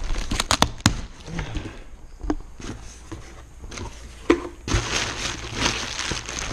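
A cardboard package being handled and opened: several sharp clicks and knocks in the first second, then rustling and crinkling of packaging from about five seconds in.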